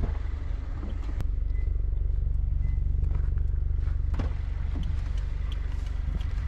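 Subaru Forester tS STI's turbocharged flat-four engine idling steadily, with a couple of short clicks.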